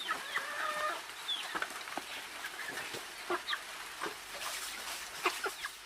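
Chickens clucking, with many short calls scattered through a steady background hiss.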